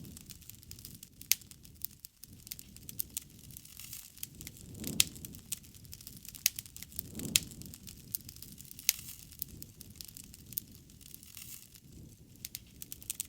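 Wood fire (bonfire) burning, crackling with sharp pops scattered irregularly throughout. Twice, about five and seven seconds in, a soft low rush swells up and fades.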